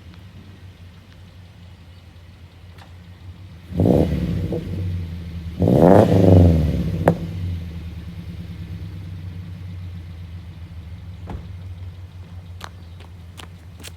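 A 2018 Subaru Forester 2.5i's flat-four engine with aftermarket exhaust headers and a muffler delete, idling and revved twice, about four and six seconds in, before settling back to idle.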